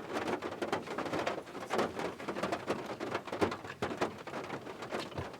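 Rain falling, with many separate drops tapping close by at an irregular pace.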